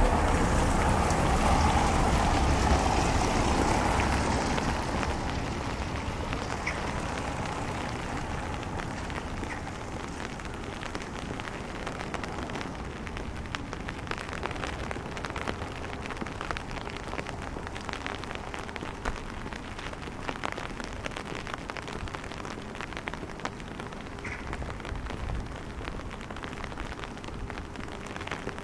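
Rain falling on wet cobblestones and hard surfaces, a steady hiss dotted with many small drop ticks. A louder low rumble fades away over the first five seconds.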